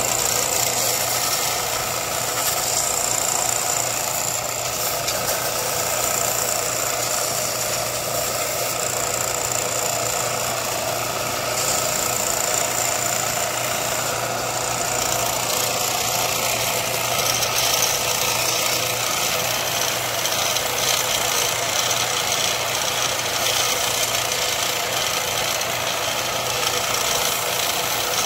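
A workshop power tool running steadily, a motor hum under a loud hiss whose high part shifts a few times, consistent with grinding or polishing work on the knife blade.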